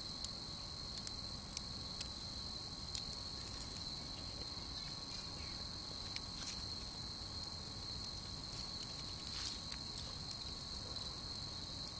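Crickets chirping in a steady, high, even band, with scattered sharp clicks and pops from a crackling wood campfire.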